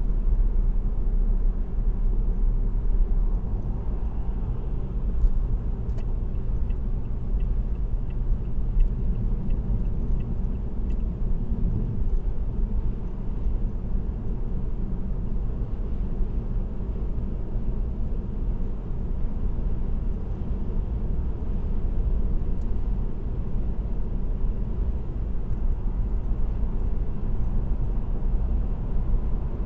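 Car driving at steady highway cruising speed: a continuous low rumble of road and tyre noise with the engine underneath. Between about six and eleven seconds in, a faint run of light ticks, about three a second, sits over the rumble.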